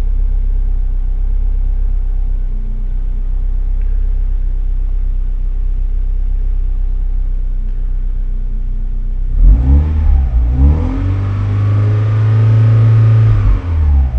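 Vauxhall C20XE redtop 2.0-litre 16-valve four-cylinder engine idling steadily, then revved about nine seconds in: a few quick throttle blips, then held at higher revs for a couple of seconds before dropping back toward idle near the end.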